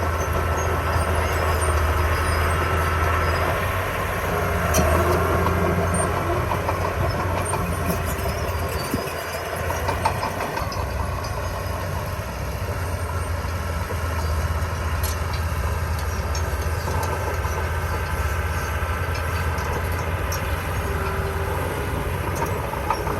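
Diesel engine of heavy construction machinery running steadily, with a strong low drone that eases briefly about nine seconds in.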